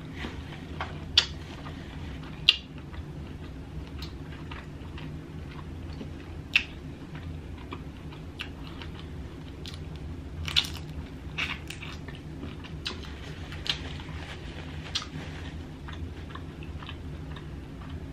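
Close-miked chewing of a sauce-coated shrimp, with wet smacks and mouth clicks every few seconds, the sharpest two in the first few seconds. A cluster of smacks comes about ten seconds in as sauce is licked off the fingers. A steady low hum sits underneath.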